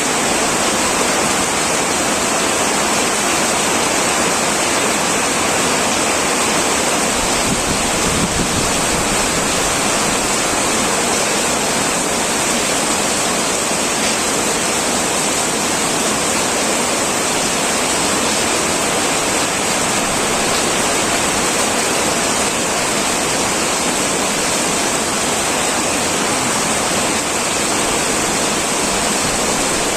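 Heavy rain falling steadily on a tin roof, a dense, even hiss with no single drops standing out.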